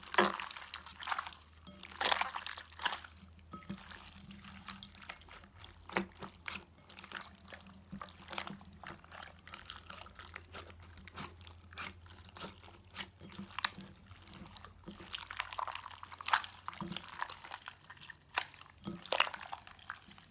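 Slime being squished and worked by hand, giving irregular wet, sticky clicks and squelches.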